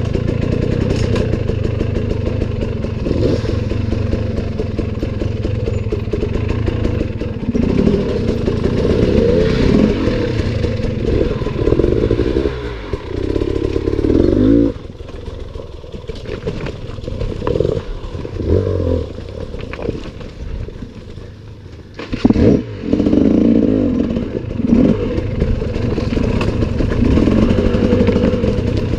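Enduro dirt bike engine revving hard and unevenly as the throttle is worked, pitch rising and falling, with a quieter stretch of several seconds around the middle before it picks up again.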